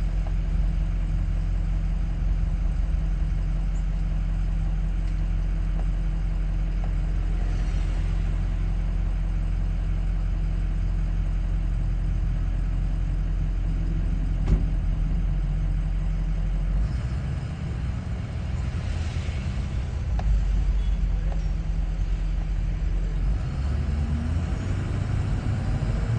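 Steady low rumble of road and engine noise in a moving car, heard from inside the cabin. The rumble changes character about two-thirds of the way through.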